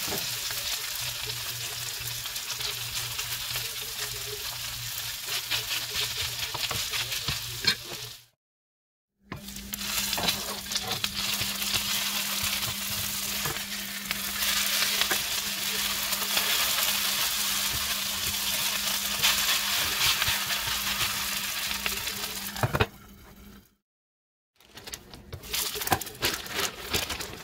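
Shredded potatoes sizzling as they fry in hot oil in a small frying pan, with a spatula scraping and turning them. The sizzle cuts off abruptly twice, for about a second each time.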